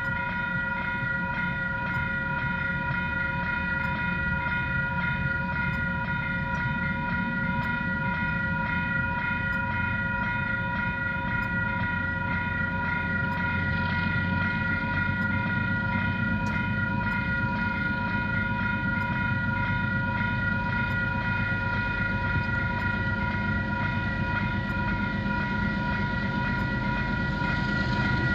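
Freight train wagons, a rake of ballast wagons, rumbling across a level crossing, with the crossing's warning bells ringing steadily over the rumble.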